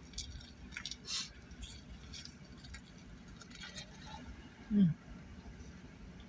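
Close-up chewing and mouth noises of someone eating, a scatter of short wet clicks and smacks. Just before five seconds in comes one brief voiced sound that falls in pitch.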